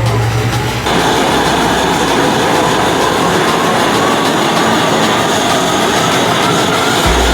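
Toyota 86/Subaru BRZ with an aftermarket Eagle muffler on the move: steady exhaust and road noise, coming in abruptly about a second in.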